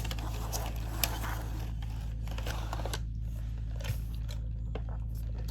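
Steady low hum with a few faint, short clicks scattered through it, the small mouth and handling noises of someone eating close to the microphone.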